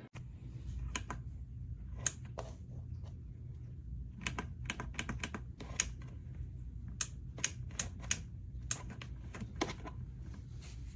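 A run of irregular light clicks and taps, a couple of dozen in all and unevenly spaced, over a steady low hum.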